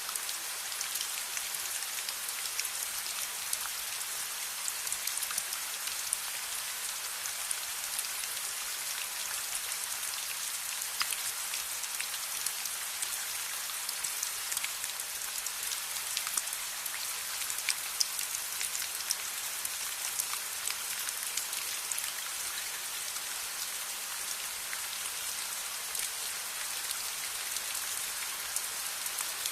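Steady rain falling in a dense, even hiss, dotted with many small sharp ticks.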